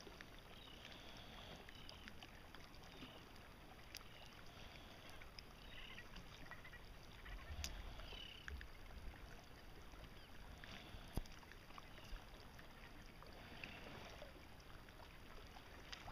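Faint outdoor ambience: a low steady hiss with a few faint high chirps and soft clicks scattered through it.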